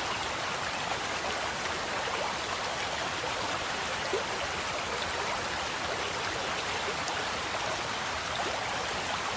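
Steady splashing and bubbling of circulating aquarium water, with small bubble pops scattered throughout.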